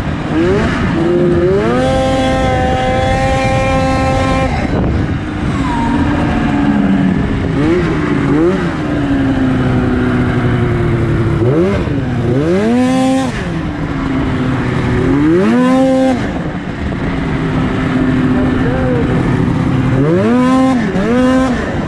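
2004 Arctic Cat F6 snowmobile's 600 cc two-stroke twin, fitted with an aftermarket exhaust can, being revved hard. It climbs and holds high for a couple of seconds near the start, then settles lower with several sharp rev swells up and back down later on.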